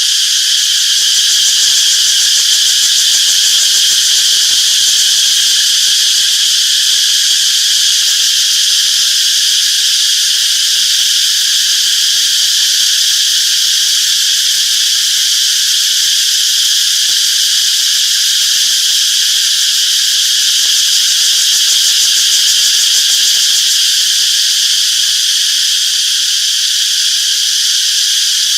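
Cicadas singing in a dense, continuous chorus: a loud, steady high-pitched buzz that does not let up.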